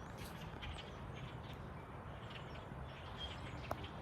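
Faint outdoor ambience: scattered short bird chirps over a low, steady rumble, with one brief click near the end.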